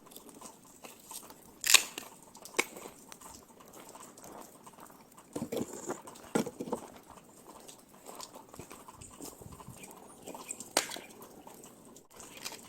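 A cat chewing, with scattered sharp crunches.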